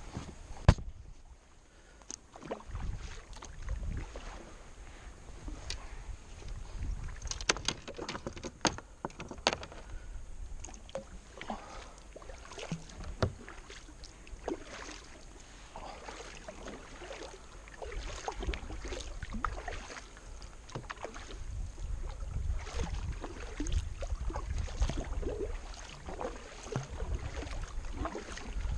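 Kayak paddling: the blades dip and splash in the water stroke after stroke, with irregular sharp knocks of the paddle against the hull.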